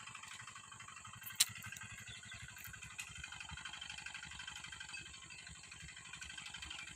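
Small tractor's engine running steadily with rapid, even firing pulses. A sharp click comes about a second and a half in.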